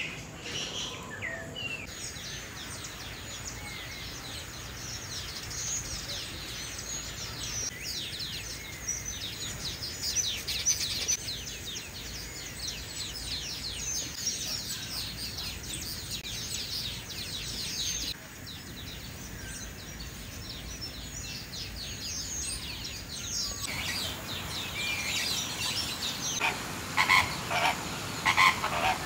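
Many small birds chirping together in a dense, continuous chatter of short high calls. The calls get louder and more distinct near the end.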